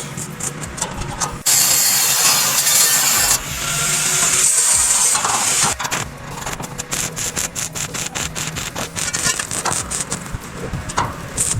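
Construction work: two long bursts of high-pitched cutting noise from a power tool, then a quick run of sharp clicks and knocks.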